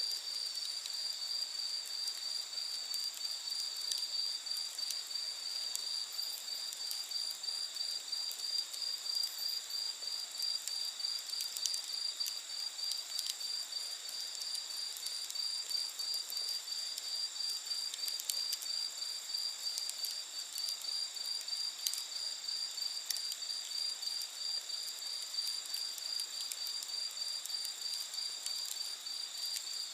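Crickets chirping in a steady, evenly pulsing chorus, with sparse faint pops from a wood campfire.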